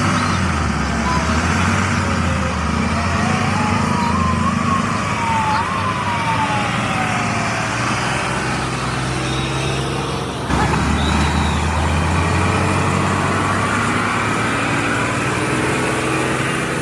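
Heavy truck engine running steadily, with a thin tone gliding up and down over it in the first half and an abrupt change in the engine sound about ten seconds in.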